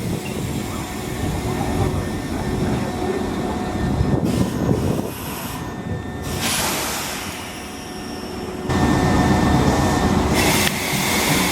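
Inside a Hokuso Railway 7260 series commuter train car: rumbling rail noise with a steady hum, broken by a few short bursts of hiss.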